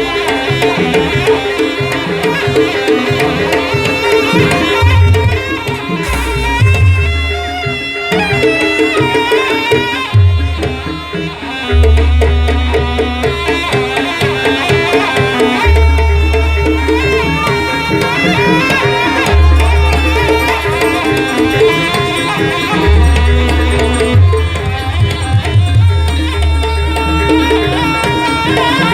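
Traditional Banyuwangi Jaranan Buto music: a percussion-led ensemble playing a busy rhythmic piece with melodic lines over it, and deep low notes sounding in long stretches that come and go every few seconds.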